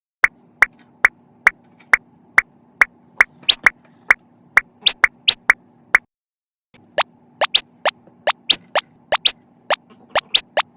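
A string of short, sharp pop sound effects, each sweeping quickly up in pitch, about two to three a second over a faint steady hum. They break off for a moment about six seconds in and come back quicker and louder.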